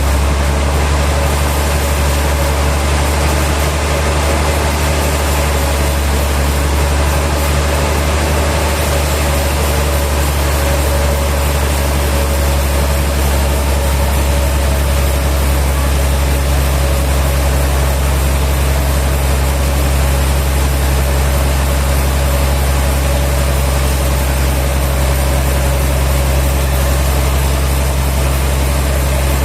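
Sawmill machinery running steadily: a loud, constant low engine hum with a steady higher whine over it.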